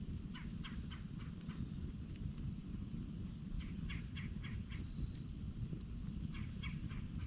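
Campfire burning with a steady low rumble. Over it a bird calls three times, each call a quick run of four to six short notes, near the start, in the middle and near the end.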